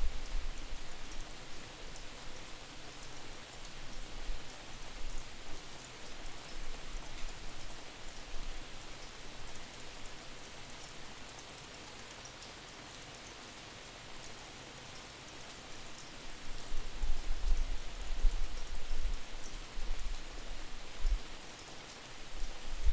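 Steady rain falling, with fine pattering drops, and wind buffeting the microphone in low distorted rumbles that come in gusts, strongest in the last third.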